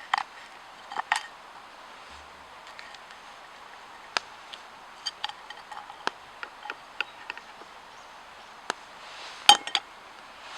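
A scattered series of sharp clicks and light clinks, two near the start, many lighter ones in the middle and a louder cluster near the end.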